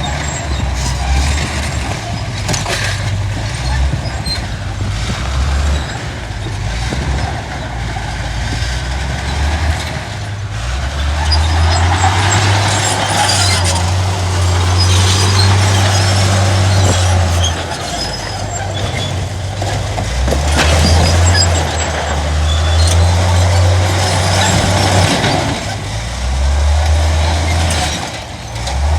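Heavy diesel engines of a bulldozer and dump trucks working. The engine note rises and falls in steps with load, over rattling and occasional clanks.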